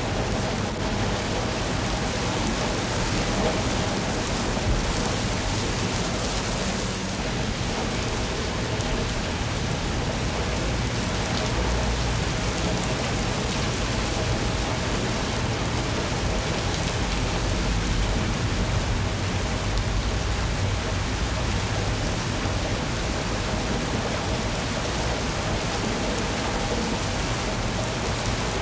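Steady rain falling, an even hiss of drops on surfaces, with a low rumble swelling twice underneath.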